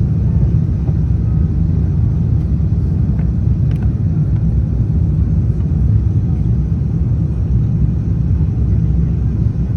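Steady low rumble inside the cabin of an Airbus A350-900, heard from an economy window seat.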